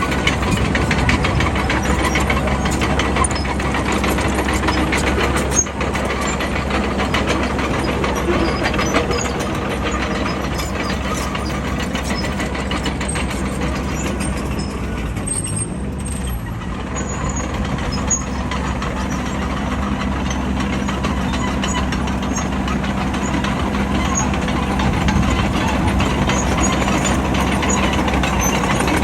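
Bulldozer's diesel engine running under load, with a steady drone that eases off briefly about halfway through and then picks up again.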